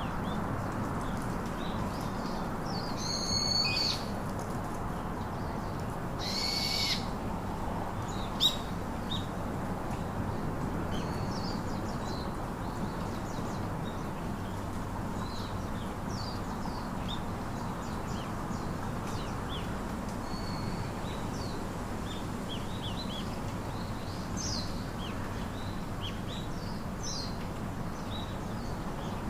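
Wild birds calling: many short, high chirps and whistles scattered throughout, with two harsher, raspy calls about three and six and a half seconds in, over a steady background hiss.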